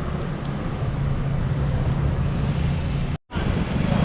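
Road traffic noise: a steady rumble of vehicle engines and tyres with a low hum. The sound cuts out completely for a split second near the end, then resumes.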